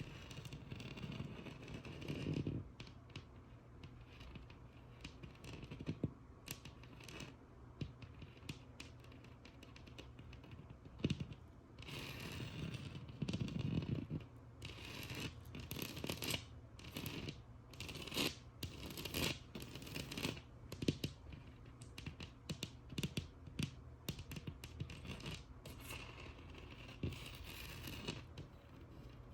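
Fingernails tapping and scratching on a textured wall: scattered quick taps mixed with longer raspy scratching strokes.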